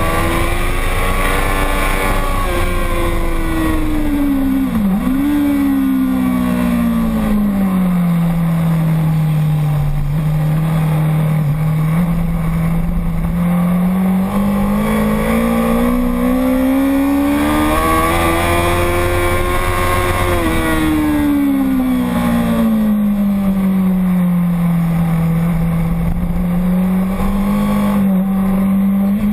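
Motorcycle engine running continuously under changing revs. Its pitch falls, dips sharply for a moment about five seconds in, holds low, climbs slowly for several seconds, then falls again and steadies near the end, over a low rushing rumble.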